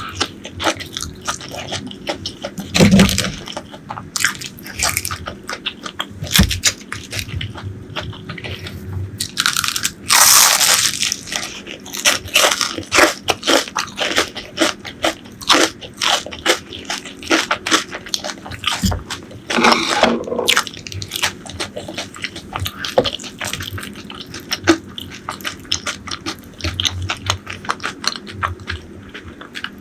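Close-miked eating: a run of crunchy bites and wet chewing, full of irregular crackles and clicks, with a few louder crunches along the way.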